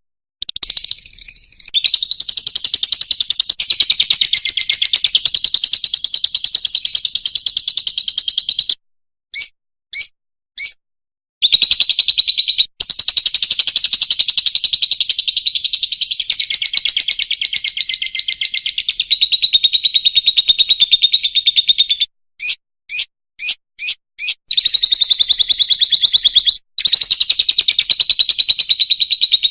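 Fischer's lovebird singing: long runs of rapid, high chattering notes, broken twice by short pauses holding a few separate short chirps, three about ten seconds in and five about two-thirds of the way through.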